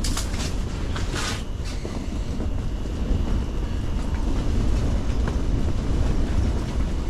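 Steady low rumble of strong wind buffeting an ice fishing hut, with two short rustling noises near the start.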